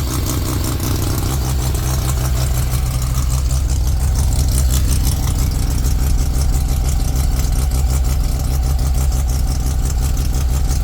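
Turbo Mazda RX-7's rotary engine running at a steady fast idle of about 2,000 RPM right after its first startup, with an exhaust leak puffing from the open EGT probe holes in the exhaust.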